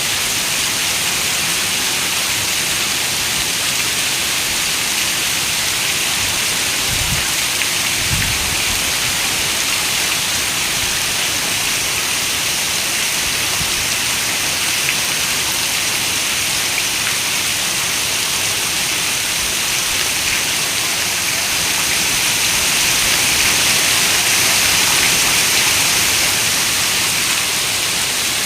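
Heavy rain falling in a steady, dense hiss. About seven and eight seconds in there are two brief low thumps, and the rain swells a little louder for a few seconds near the end.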